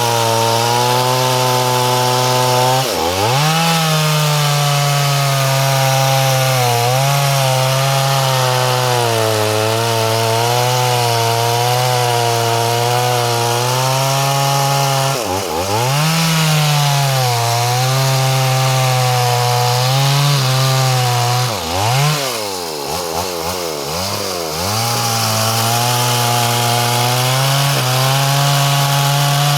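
A freshly repaired two-stroke chainsaw running hard, its engine pitch wavering throughout. The engine speed sags sharply and recovers about three seconds in, again around the middle, and twice more a little later.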